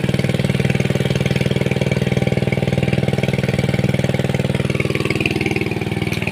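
A small engine running steadily with a fast, even pulse, its pitch dipping slightly about five seconds in.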